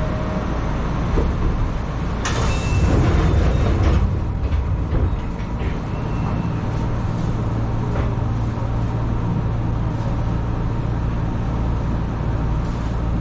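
Enshu Railway electric train standing at a station, its on-board equipment humming steadily, with a loud hiss of air for about two seconds starting about two seconds in.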